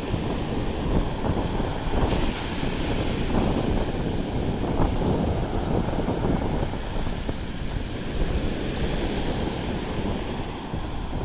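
Sea surf washing on the beach, with wind gusting on the microphone.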